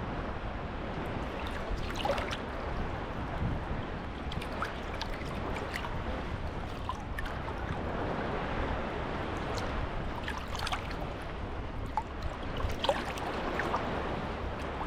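Small sea waves washing onto the beach, with a continuous wash and short splashes now and then.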